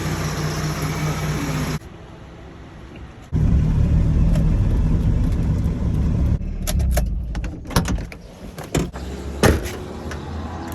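A car engine running with a steady low hum, joined in the second half by several sharp clicks and knocks.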